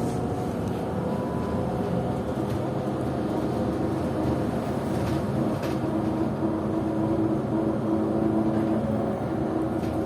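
PKTS-6281.01 'Admiral' trolleybus under way, heard from inside: road and running-gear rumble with the whine of its AC traction motor and IGBT inverter, which grows stronger from about the middle and fades near the end.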